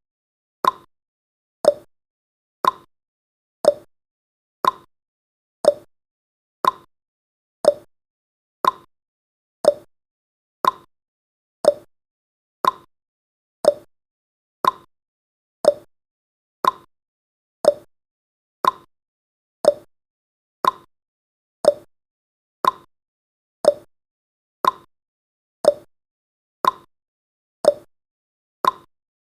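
Clock-style tick-tock sound effect of a countdown timer: one short tick each second, alternating between a higher and a lower tick.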